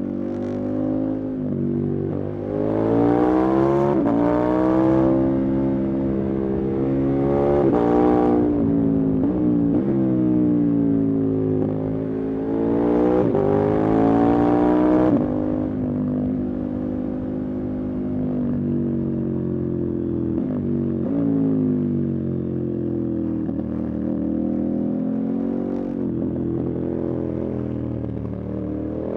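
Motorcycle engine under way, its pitch climbing and dropping with the throttle and gear changes: three hard pulls in the first half, then steadier cruising with gentle rises and falls.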